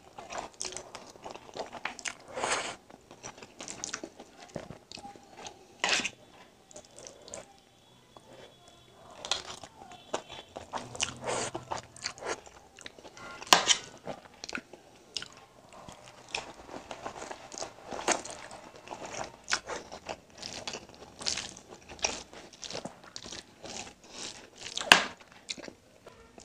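Close-up eating of egg noodles: chewing with many short, wet mouth clicks and smacks at an irregular pace.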